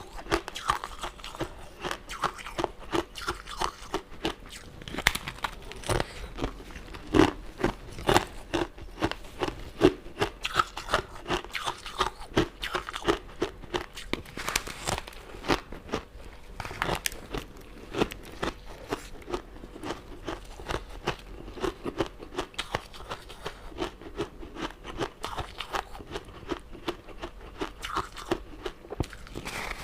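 Close-miked eating of sugary sweets: crunchy bites and chewing, with many sharp crackles throughout.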